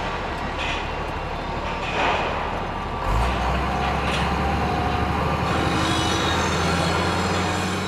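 Heavy machinery engine rumbling steadily, with a low hum that grows louder about three seconds in and a few scattered clanks.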